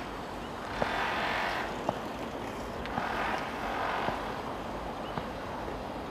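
Electric freight train running toward the camera, its wheels clicking over rail joints about once a second over a rushing rumble that swells and fades.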